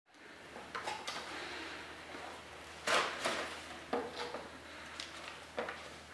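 A series of about eight sharp knocks and clatters, some close together in pairs, the loudest about three seconds in, over a low steady hum.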